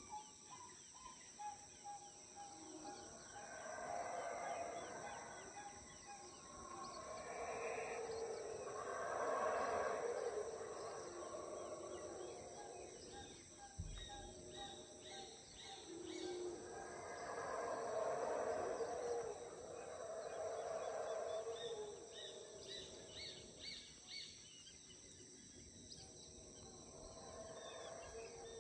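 Howler monkeys roaring in two long bouts that swell and fade, over a steady high insect drone.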